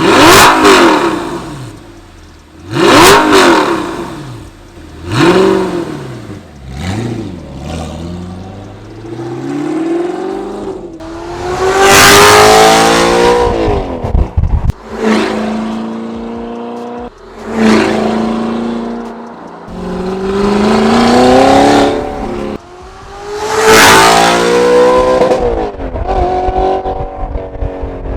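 Audi R8's V8 through a valved high-pitched aftermarket exhaust, revved hard over and over: several short sharp blips that rise and fall back, then longer runs where the pitch climbs and drops suddenly at gear changes. The loudest pulls are about twelve seconds in and near the end.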